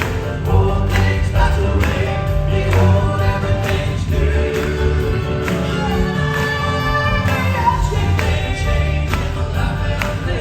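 Southern gospel male vocal quartet singing in close harmony over a live band with bass and a steady beat.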